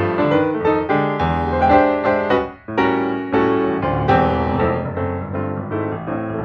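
Background music: a piano piece, notes played in a steady flowing pattern.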